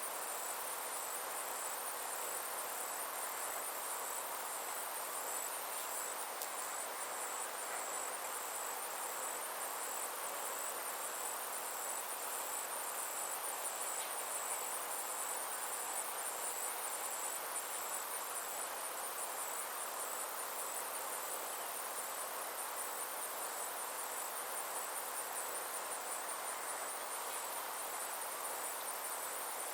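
Summer insects trilling steadily in a high, rapidly pulsing chorus that runs on without a break, over a soft even hiss.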